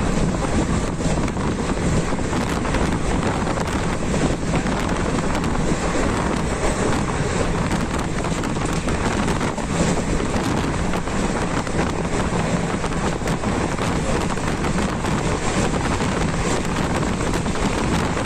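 Passenger train running at speed: a steady rush of wheel and rail noise with scattered faint clicks, mixed with wind buffeting the microphone.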